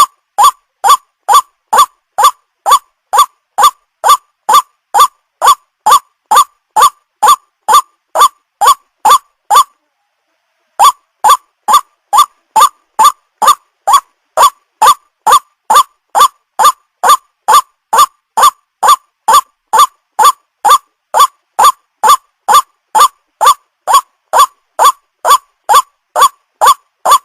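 White-breasted waterhen's call played as a bird-lure recording: loud short notes repeated about twice a second, each rising in pitch. The calling breaks off for about a second near the middle, then carries on.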